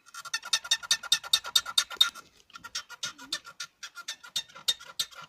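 Steering of a VAZ-1113 Oka squeaking rapidly and rhythmically, about seven squeaks a second, with a short break about two seconds in. The engine is idling and the wheel is left free: the creak comes with idle vibration and goes quiet once the wheel is held, and its source in the steering is not yet found.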